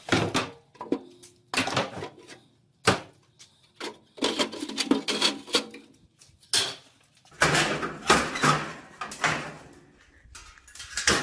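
Metal parts of an old barbecue grill clanking, rattling and scraping as it is taken apart, in irregular spurts with short pauses between.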